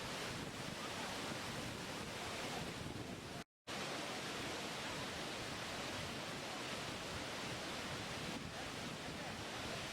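Waterfall running: a steady, even rush of falling water that drops out to silence for a moment about three and a half seconds in.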